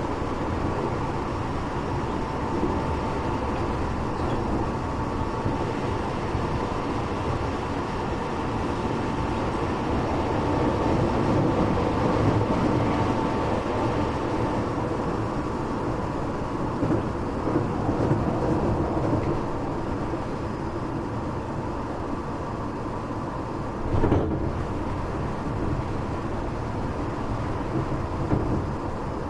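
Running noise inside a Tokyo Metro 8000-series electric train car in motion: a steady rumble of wheels on rail with a faint steady high tone, swelling slightly in places, and a single knock about 24 seconds in.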